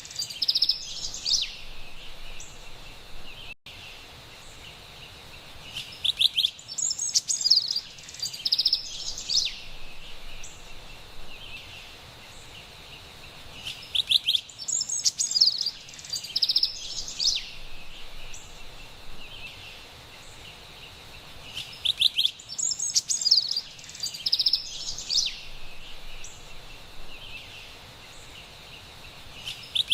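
Carolina wren singing: bursts of bright, high notes that recur about every eight seconds, each phrase lasting a few seconds, over a steady background hiss.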